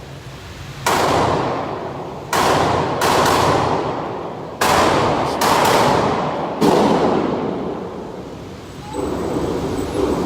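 Gunshots at a shooting range: about seven shots fired at uneven intervals, each followed by a long echoing decay.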